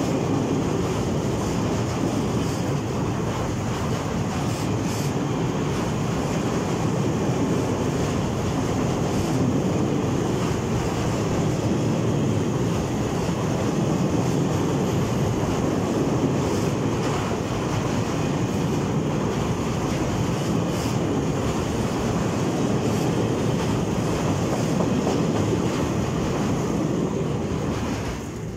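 Freight train's wagons rolling steadily past on the rails, a continuous rumble of wheels on track with a few faint clicks scattered through.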